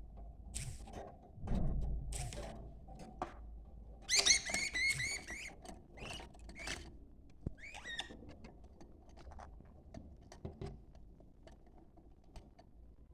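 Budgerigars chirping and chattering in short, scattered calls, with the busiest burst of warbling about four seconds in; this is the kind of budgie chatter played to stimulate breeding.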